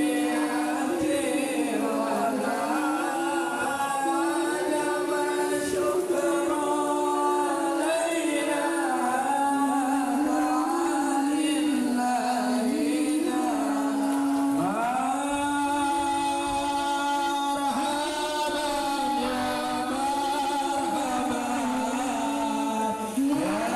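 Voices singing sholawat, Islamic devotional praise of the Prophet, as a slow chant with long held notes.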